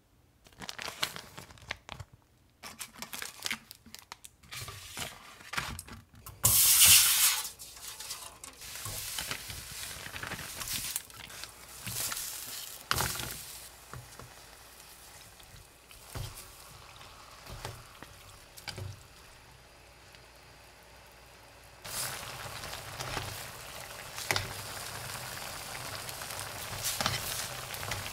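Kimchi, marinated pork and onion frying in a disposable aluminium pan, sizzling. A few clicks and knocks at the start, then a loud swell of sizzle about seven seconds in. The sizzle eases in the middle and grows louder again past twenty seconds.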